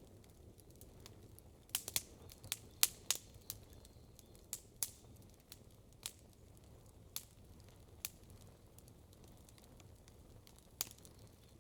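Campfire crackling: sharp pops of burning wood, a quick cluster of them about two to three seconds in, then scattered single pops, over a faint low background rumble.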